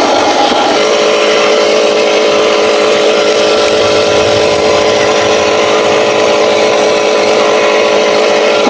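Radio-controlled Huina 1501 Scania 770S truck running with a steady mechanical drone. A higher tone drops out under a second in.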